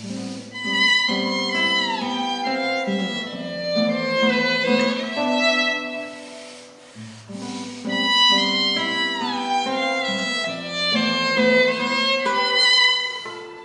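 Chamber orchestra strings playing a slow piece, with a violin melody that slides downward in pitch. The same phrase is played twice, the second time beginning about halfway through.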